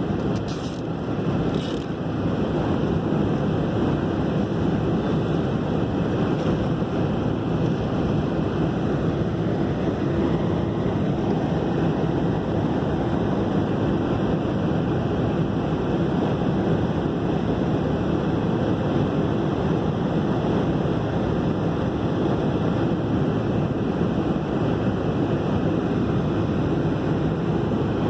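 Steady roar of jet engines and rushing air heard inside an airliner cabin, with a few faint ticks in the first two seconds.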